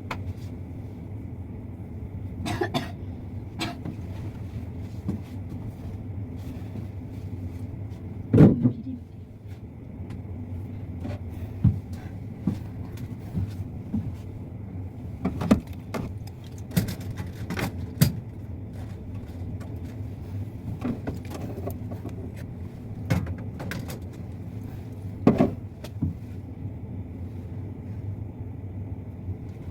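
Steady low machine hum, with scattered short knocks and clatters through it, the loudest about eight seconds in.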